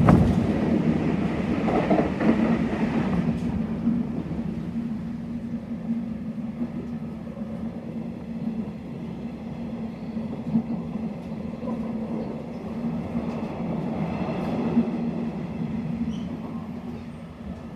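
Nishitetsu Tenjin-Ōmuta Line electric train running, heard from inside the carriage: a steady rumble of wheels on rail with a constant low hum. It is loudest just at the start, with a brief louder surge, then slowly gets quieter.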